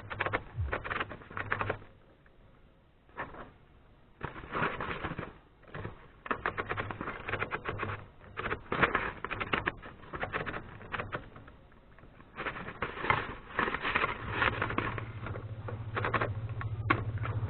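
Remington Noiseless No. 6 typewriter being typed on: irregular runs of rapid keystroke clicks separated by short pauses.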